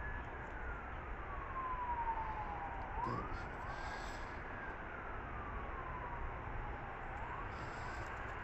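Emergency vehicle siren in a slow wail: the pitch climbs quickly and then falls slowly over about three seconds, repeating about every four seconds, over steady background noise.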